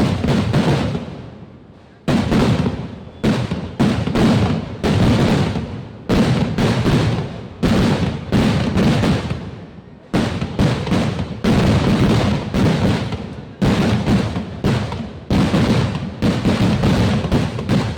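Firework explosions going off in rapid volleys, sharp bangs several a second, each trailing into a rumbling echo, with a short lull about a second in.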